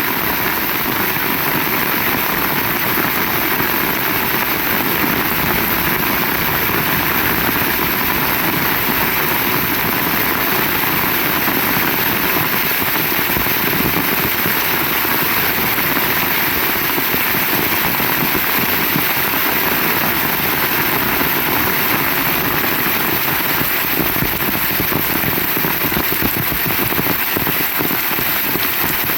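Heavy rain falling steadily, a dense, even hiss of rain on surfaces that does not change.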